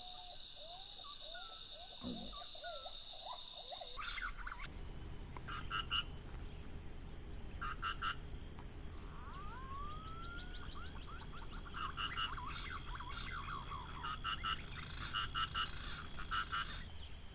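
Wild animal calls: many short chirps and pulsed calls repeating in clusters, over a steady high insect hum. The background changes abruptly about four seconds in.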